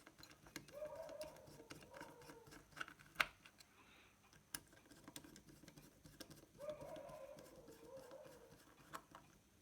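Faint scattered clicks and scrapes of small-screwdriver work on the stereo board, tightening the screws that clamp the amplifier IC to its aluminium heat sink, with one sharper click about three seconds in. Twice, a low wavering call sounds in the background, each lasting about two seconds.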